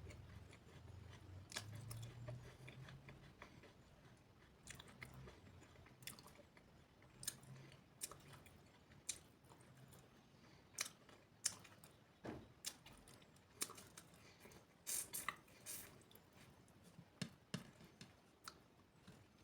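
A person chewing and biting food up close, with irregular crunches and wet mouth clicks, more frequent in the second half.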